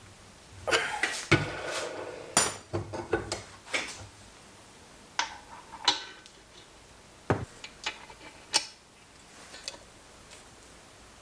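Small metal parts and tools clinking and knocking as they are handled. A quick run of clatter comes in the first few seconds, then single sharp knocks and clinks spaced out.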